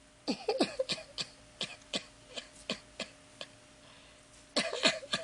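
A woman laughing in short breathy bursts, about three a second, trailing off, then another burst of laughter near the end.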